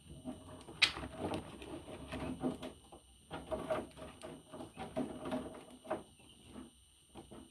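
Budgerigar pecking and scratching in its cage: an irregular run of soft clicks, taps and scratches, with a brief high chirp about a second in.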